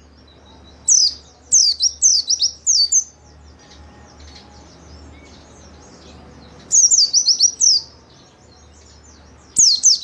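White-eye (pleci) singing in quick bursts of high, falling chirps. There are three phrases: one about a second in that lasts about two seconds, a shorter one near seven seconds, and another starting at the very end.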